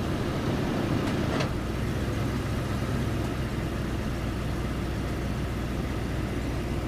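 2004 Toyota Sequoia's 4.7-litre V8 idling steadily, warmed up while the automatic transmission is cycled through its gears for a hot fluid check. A couple of faint clicks come about a second in.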